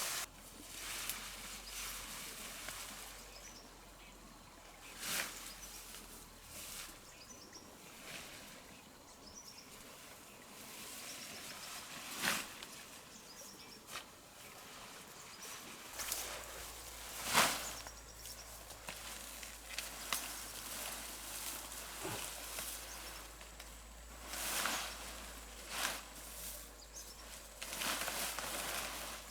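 Outdoor ambience with a steady background hiss, broken by scattered short knocks or scrapes every few seconds, and faint high chirps from birds or insects.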